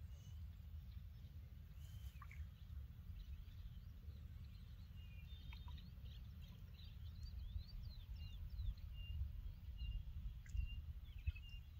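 Birds chirping and calling, many short notes and quick sweeps, busier in the second half, over a steady low rumble.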